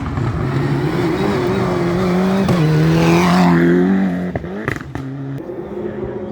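Rally car engine running hard and building to its loudest about three to four seconds in. It then drops suddenly, with a few sharp cracks, and settles to a lower, steady note.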